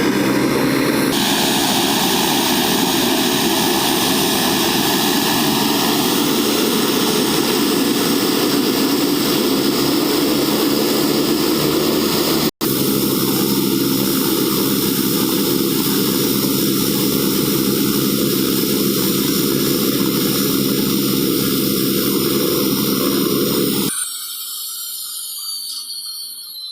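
Airliner's engines running loud and steady as it taxis to park. About 24 s in the noise drops sharply and a falling whine follows as the engines wind down.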